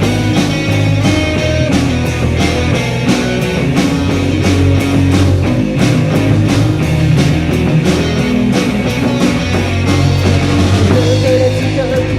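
Instrumental passage of a rock song: electric guitar over a steady drum beat with bass, and no singing. A wavering melodic line comes in near the end.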